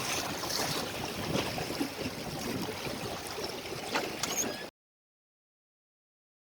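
Water rushing and splashing along the hull of a small sailboat under way, with a few sharper slaps, then cutting off suddenly to dead silence about two-thirds of the way through.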